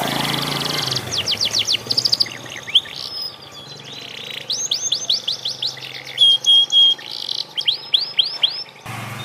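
Pied canary practising its song: rapid runs of quick sweeping notes, buzzy trills and a few held whistles, with a break about nine seconds in.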